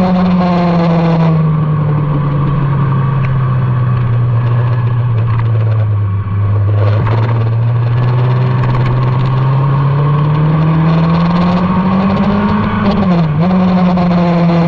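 Motorcycle engine running hard on a race track: the revs fall and stay low for several seconds, then climb steadily again, with a quick drop and recovery in pitch near the end before it holds steady.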